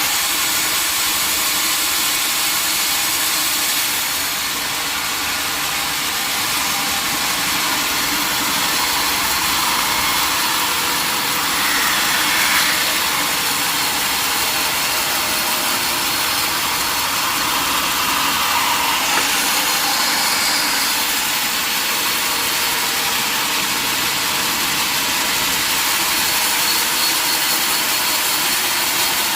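Sawmill machinery running steadily: a constant mechanical noise with no breaks.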